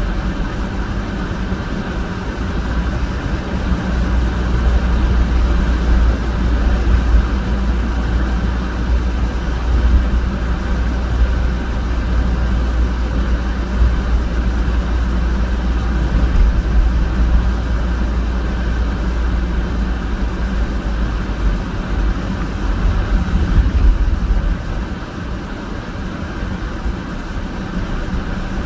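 Steady low rumble and road noise of a car being driven, which eases a little near the end.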